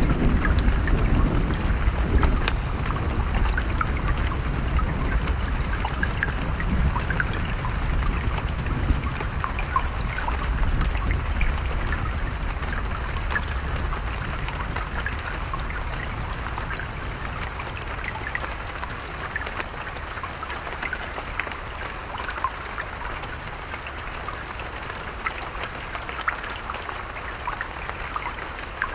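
Steady rain with individual drops pattering and trickling. A low rumble of thunder dies away over the first half.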